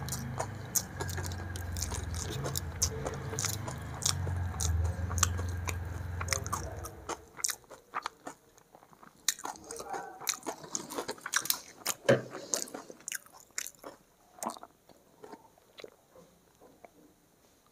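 Close-up eating sounds: chewing, wet mouth clicks and fingers working rice and egg curry on a plate. A low steady hum underneath cuts off about seven seconds in, leaving only scattered clicks.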